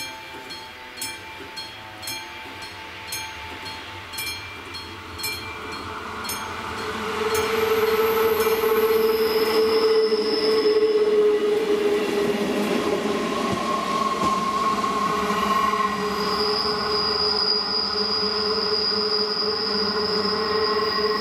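AŽD 71 level-crossing warning bell striking about twice a second. From about seven seconds in, a ČD class 814 Regionova diesel railcar passes over the crossing, its wheels squealing with several high steady tones on the curved track.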